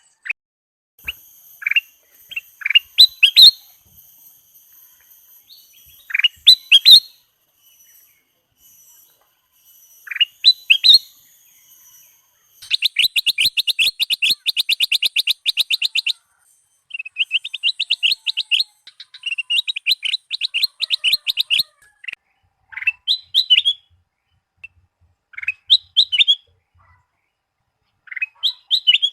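Kutilang emas bulbul singing: short, bright whistled phrases, broken by two long runs of rapid repeated notes in the middle, then more scattered phrases.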